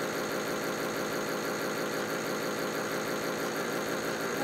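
Small battery-powered motor of a Europlay Tide Juniors Home toy washing machine running steadily, turning its drum during a cycle.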